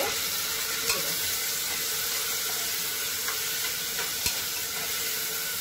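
Sliced tomatoes and onions sizzling in hot oil in an aluminium pressure cooker while they are stirred, with a few sharp knocks of the spoon against the pot.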